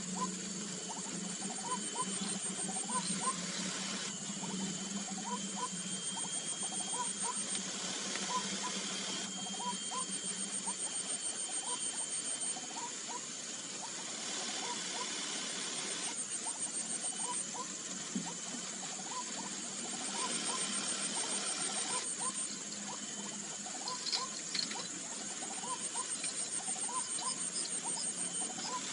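White-breasted waterhen calling: a long string of short, repeated notes, with insects trilling steadily in spells of a couple of seconds behind it.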